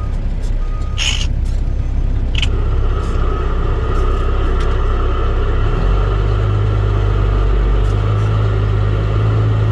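Dump truck diesel engine running, heard from inside the cab, with two short hisses about one and two and a half seconds in. The engine's low rumble grows louder about six seconds in as the truck pulls ahead.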